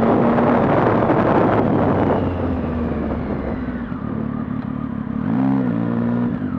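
The 675 cc inline-triple engine of a 2015 Triumph Street Triple Rx, fitted with a Coffman's aftermarket exhaust, running under way. About two seconds in it eases off and settles to a lower, quieter note. Near the end comes one short blip of revs that rises and falls.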